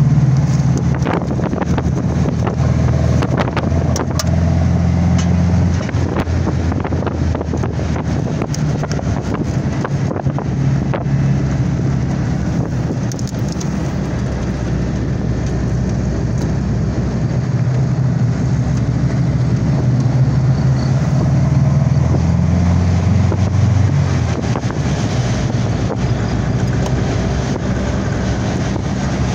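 Vintage car's engine running steadily under way, heard from on board, with road and wind noise on the microphone. The engine note steps down about six seconds in and again near the end, and a few sharp rattles sound in the first half.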